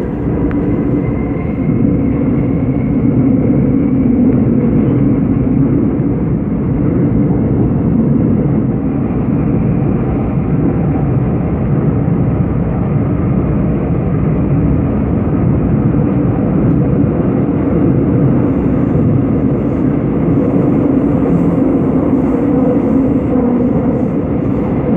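Seoul Subway Line 5 train running in a tunnel: a steady rumble of wheels on rail and traction equipment, with a faint electric motor whine rising in pitch near the start.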